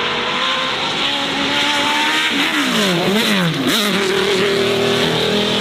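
Racing car engine under hard acceleration, its pitch climbing slowly. About halfway through the revs drop sharply and climb back twice in quick succession, as in gear changes or throttle lifts, then hold steady and high.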